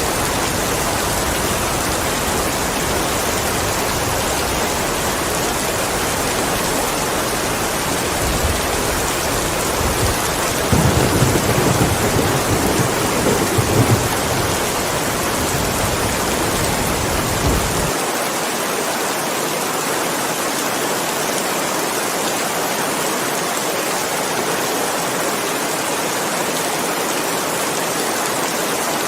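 Steady heavy rain with a low rumble of thunder rolling through the middle, swelling for a few seconds before cutting off abruptly.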